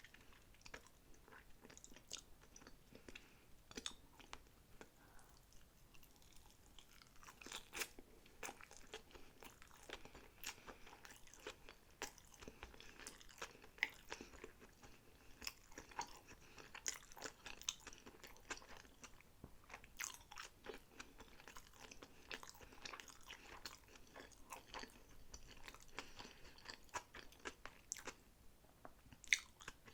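Close-miked chewing of sushi, with wet mouth sounds and many small crunchy clicks. The clicks are sparse for the first several seconds, then come thick and fast.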